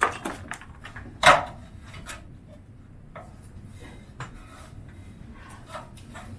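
Scattered knocks, bumps and scrapes of wood and objects being handled, with one sharp knock about a second in.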